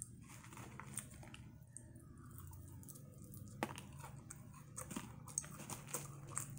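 Close-up chewing of Flamin' Hot Cheeto-crusted fried shrimp: faint crunching with scattered sharp crackles, the sharpest about three and a half seconds in.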